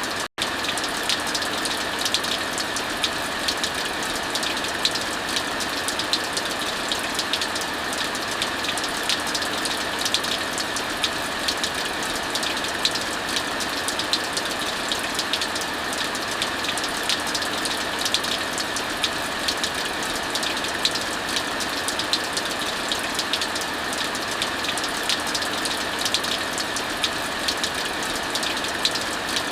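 Heavy rain falling steadily, mixed with a wood fire crackling: a constant hiss with frequent sharp pops and ticks. The sound cuts out for an instant just after the start.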